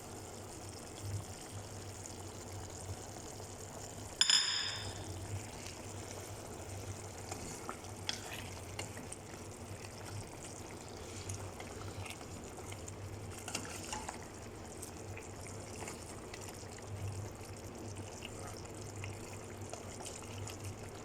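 Chicken adobo simmering and bubbling in a pot on the stove, with a steady low hum underneath. About four seconds in, a single sharp metallic clink rings briefly.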